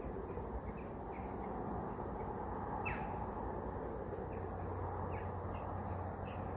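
Faint, short bird calls over a steady background noise, the clearest a single call falling in pitch about three seconds in.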